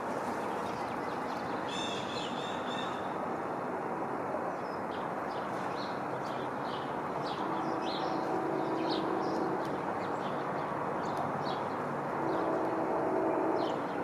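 Outdoor feeder ambience: a steady rushing background noise with small birds chirping on and off and one short trill about two seconds in. A low steady drone comes in twice, in the middle and near the end.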